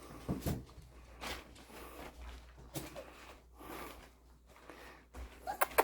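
Young Portuguese Water Dog puppies moving about and sniffing, with soft scuffling sounds and a few sharp clicks near the end.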